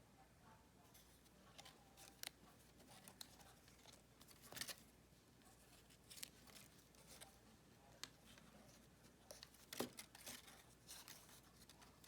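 Faint handling of paper and card stock: scattered rustles, small taps and clicks, the loudest about four and a half and ten seconds in.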